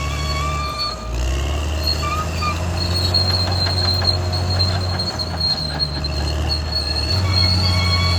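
Caterpillar D6R XL bulldozer's diesel engine running under load, its pitch shifting about a second in and again near the end, with a high, steady squeal from the steel tracks. A spell of clicks and cracks runs through the middle.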